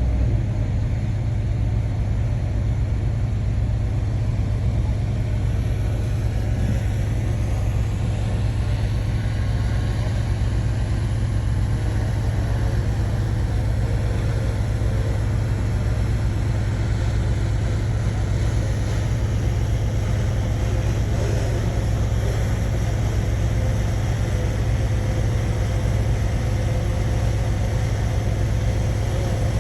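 Shantui bulldozer's diesel engine running steadily with a deep, even drone.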